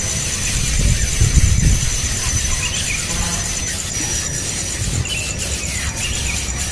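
Birds at a nest giving short, high squealing calls a few times, over a steady thin high-pitched drone and a low rumble.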